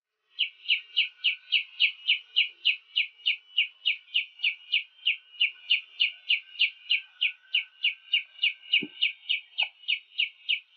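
A songbird repeating one short, high, downward-slurred call note at a steady pace of about three to four notes a second, with a fainter steady high tone underneath.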